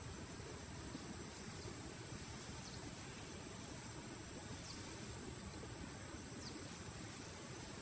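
Faint outdoor ambience: a steady high-pitched insect drone over a low rumble, with a few faint short downward chirps.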